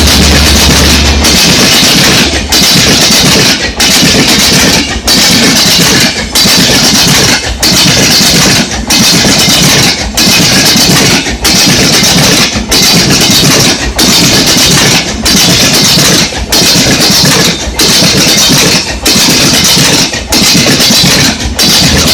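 Coaches of the New Delhi–Sealdah Rajdhani Express rushing past at speed: a loud roar of wheels on rail and air, dipping briefly about every second and a quarter as each gap between coaches goes by. The low hum of the WAP7 electric locomotive ends about a second in.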